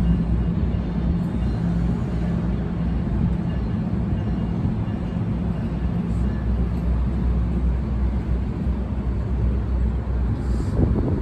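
Freight train running past, a steady low diesel drone with rolling noise.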